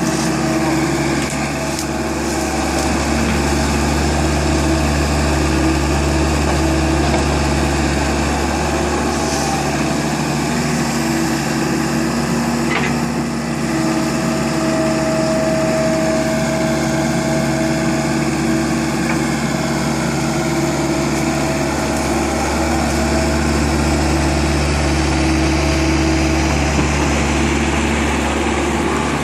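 Tractor engine running steadily at a near-constant speed, with only slight shifts in pitch.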